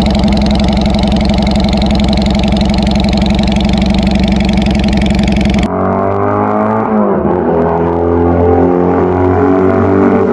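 A Honda Rebel CA125's parallel-twin engine running steadily and loudly through its free-flowing aftermarket exhaust. About two-thirds of the way in the sound cuts abruptly to a different, duller sound of steady tones that shift and bend in pitch.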